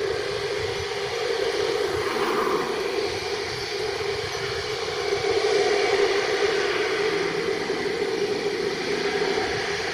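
Jet engines of an Air China Airbus A330-300 on landing approach, a steady rumbling roar that swells a little about five to six seconds in.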